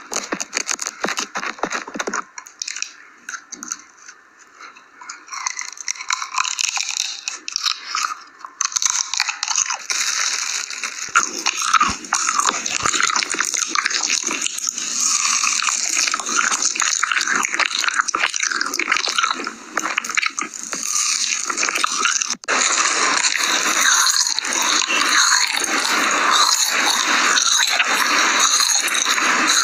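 Close-miked eating: food being bitten and chewed with dense, crackly crunches. The crunching is sparser for a few seconds near the start, then thickens after a brief break about two-thirds of the way through.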